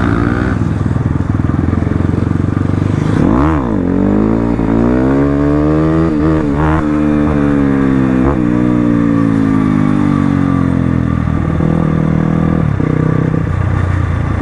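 Crossfire RM250 dirt bike's engine running under way. It blips quickly about three and a half seconds in, then rises in pitch and slowly winds back down over several seconds before settling to a steadier lower note near the end.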